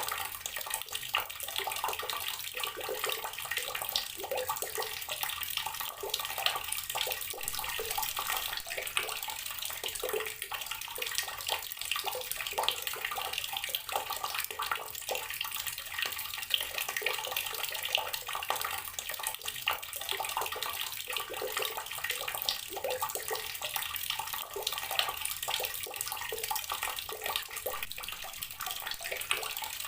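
Water running steadily from an outdoor tap, splashing continuously onto the ground or into a basin below.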